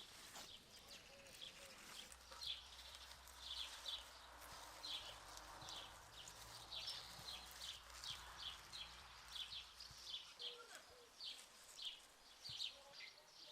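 A small bird chirping over and over, short high chirps about two a second, with a faint low rumble in the background for most of the middle.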